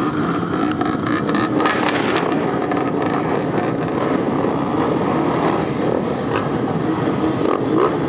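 Many off-road trail motorcycles running and revving together, a dense steady din full of crackling pops.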